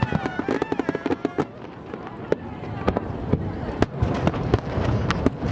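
Aerial fireworks: a quick run of crackling pops for about the first second and a half, then scattered single bangs over a low rumble.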